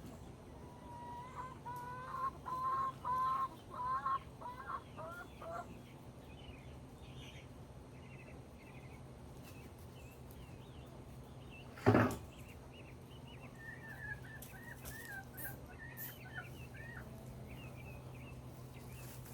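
Chicken clucking, a run of repeated calls in the first few seconds, followed later by fainter, higher chirping calls. A single sharp knock about twelve seconds in is the loudest sound.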